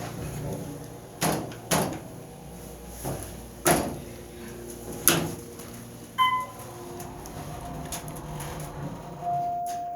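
Supermarket passenger lift running, with about six loud clunks and knocks from the lift shaft spread over the first six seconds. A short beep comes about six seconds in, and a steady tone starts near the end.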